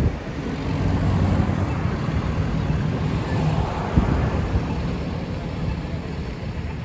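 Road traffic: motor-vehicle engines and tyres running past, with one brief knock about four seconds in.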